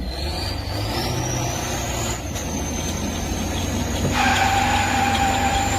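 Motor-vehicle engine running, with a high whine that rises in pitch over the first two seconds and then holds steady. About four seconds in, a steady pitched tone joins it.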